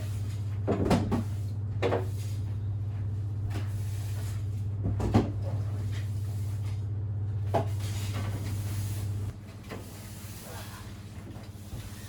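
A steady low hum that cuts off suddenly about nine seconds in, with a few short clattering knocks like a cupboard or door being handled.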